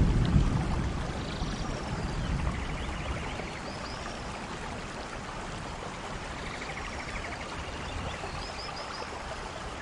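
Steady rain falling, with a low rumble of thunder that is loudest at the start and dies away over the first few seconds.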